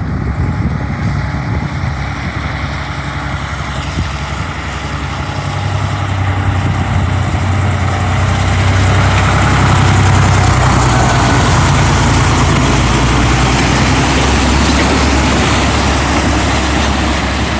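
Diesel engine of a loaded super-train log truck running as it comes down a steep grade. It grows louder over the first half, under a rising rush of noise, then holds steady and loud.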